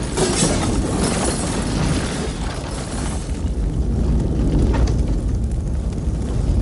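A loud, steady low rumbling noise with hiss above it; the hiss dies down about three seconds in while the low rumble carries on.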